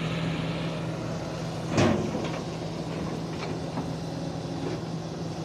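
Heavy diesel machinery running with a steady low drone, with one loud metallic clank about two seconds in and a few lighter knocks after it.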